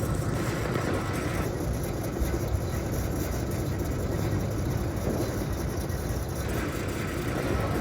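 Steady machinery rumble of a grain leg (bucket elevator) running with its buckets moving.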